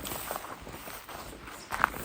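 Footsteps of a person walking on the forest floor, a series of irregular crunching steps with the sharpest and loudest one near the end.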